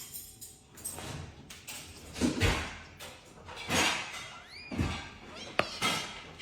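Pet parrot calling: several harsh, noisy squawks and one short rising-and-falling whistle, with a few sharp clicks or knocks.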